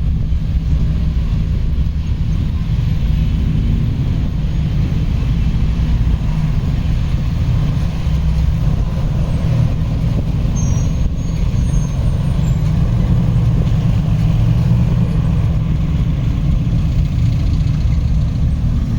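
An open-top Jeep running on the move: a steady, loud engine and road rumble with rough wind buffeting on the microphone.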